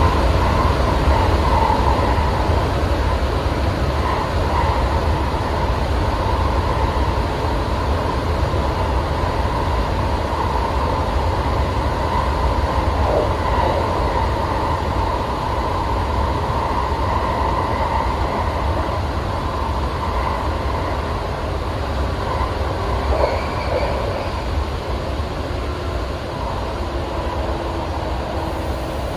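Steady running noise inside a Seibu electric train carriage under way: a low rumble of wheels on rail and a constant hum, easing slightly over the stretch.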